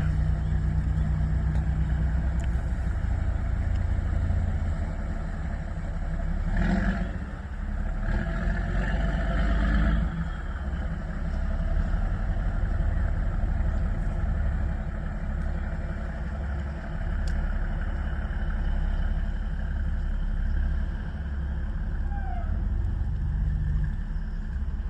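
An engine running steadily with a low rumble, with a busier, noisier stretch about seven to ten seconds in.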